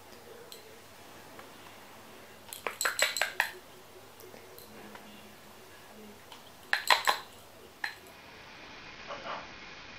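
Two quick clusters of sharp clinks like cutlery against dishes, the first about two and a half seconds in and the second near seven seconds, over a faint steady hiss.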